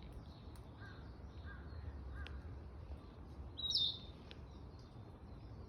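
Wild songbirds calling in woodland: scattered faint chirps, then one louder, short high call about three and a half seconds in, over a low steady background rumble.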